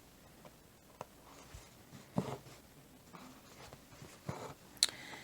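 Faint scratchy rustles of embroidery floss and needle being drawn through cross-stitch fabric, a few separate pulls with a sharp small click near the end.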